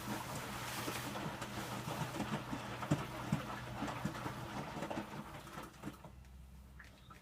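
Electrolux W455H commercial washing machine in its wash phase: a steady motor hum, with the wet load tumbling and water sloshing in the drum and making irregular soft thumps. About six seconds in the drum stops, and the sound falls to a low hum.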